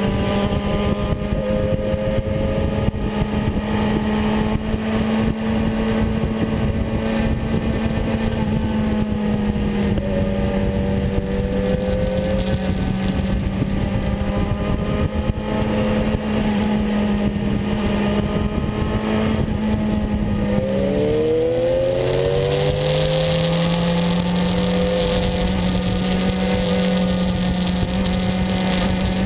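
BMW S 1000RR inline-four engine running at steady high revs with wind noise on the bike-mounted microphone; about two-thirds through the revs fall sharply, then climb back over a few seconds as the bike accelerates again.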